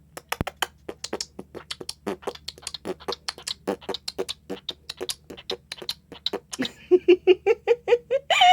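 Cockatiel making a fast run of sharp clicking sounds, about six a second. Near the end it switches to a quick string of short chirps that step up in pitch, ending in a louder call.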